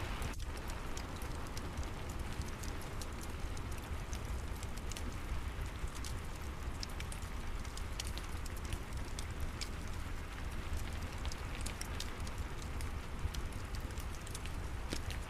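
Steady rain with a wood fire crackling: an even hiss of rain dotted with frequent small, sharp pops, over a low rumble.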